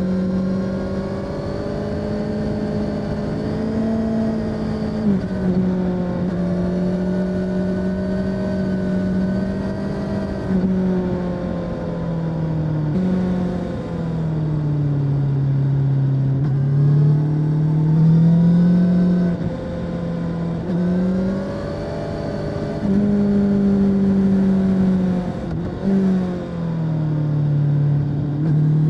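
Honda CB650R inline-four motorcycle engine on its stock exhaust, running under way. The engine note climbs and falls with the throttle and drops suddenly at several points, as at gear changes.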